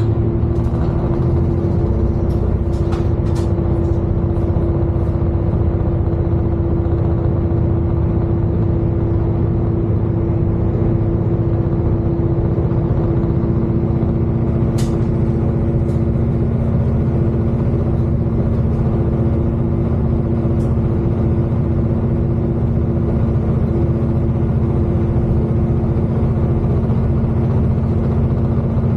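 Class 221 Super Voyager diesel-electric train heard from inside the cabin: a steady, loud rumble with a continuous hum of two steady tones and a few faint clicks.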